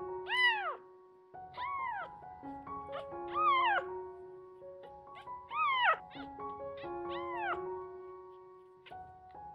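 A tiny kitten meowing about five times, each a high call that rises and then falls in pitch, over soft piano music.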